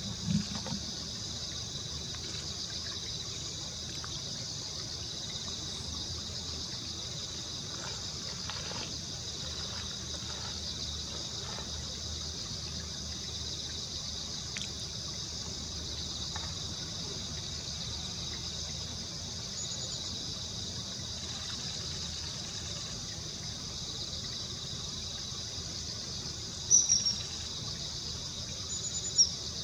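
A steady, high-pitched chorus of insects, like crickets, with a faint background of trickling water. Near the end come a few short, sharp, high-pitched bird calls.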